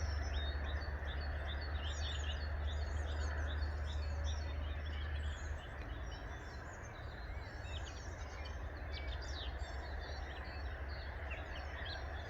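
Many small birds chirping and twittering over a steady outdoor background hiss. A low rumble underneath drops away about five seconds in.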